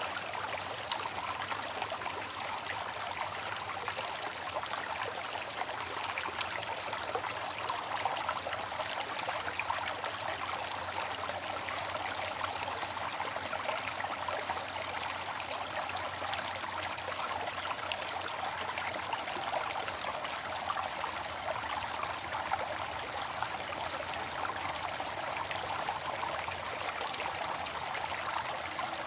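Water fountain running: falling water splashing in a steady, unchanging rush, with a fine patter of drops.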